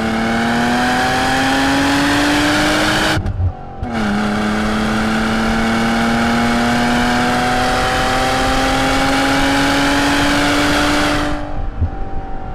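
BMW E36 325is straight-six engine under hard acceleration, heard from inside the cabin: the engine note climbs for about three seconds, cuts out briefly for an upshift and drops in pitch, then climbs steadily again through the next gear before the driver lifts off near the end.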